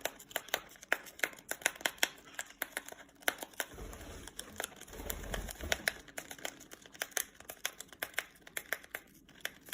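A cat clawing and biting at a tea packet, giving a quick, irregular run of sharp clicks and crinkles, with a low rumble for a couple of seconds in the middle.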